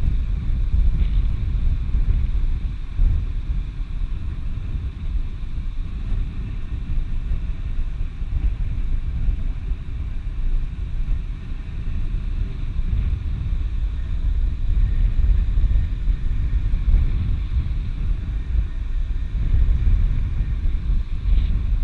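Wind buffeting the microphone on a slope, a steady low rumble that rises and falls in gusts.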